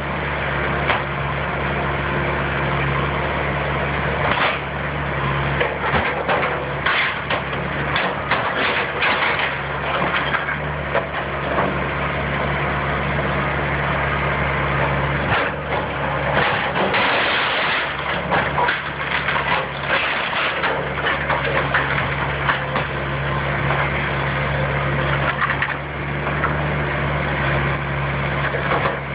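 Heavy demolition machine's engine running steadily while a house's wooden framing is crushed and torn apart, with repeated cracking and splintering wood.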